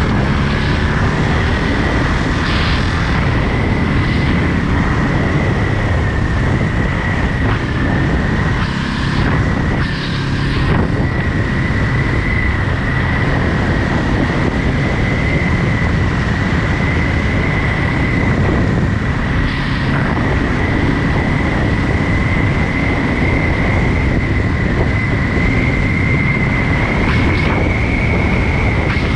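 Ducati Monster 937's L-twin engine running at a steady cruise, with a steady high whine over the engine note throughout.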